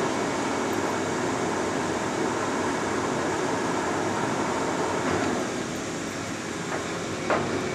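Monarch 18 x 54 geared-head engine lathe running steadily with its spindle at 64 RPM, an even machine hum that sounds great. Near the end a click, and the hum changes as the spindle speed is shifted up.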